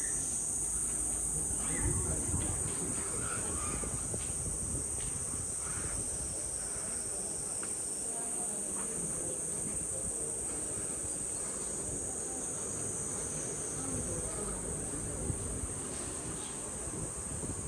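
Steady, high-pitched chorus of insects shrilling without a break, with a low rumble underneath.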